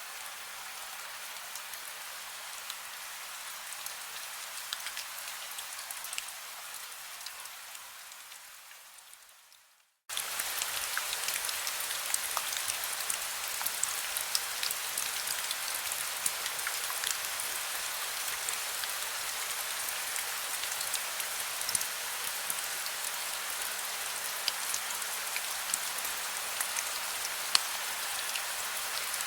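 Heavy rain falling steadily, with the fine patter of individual drops and a faint steady hum underneath. The rain fades away over a few seconds, goes silent for a moment about ten seconds in, then starts again abruptly and louder.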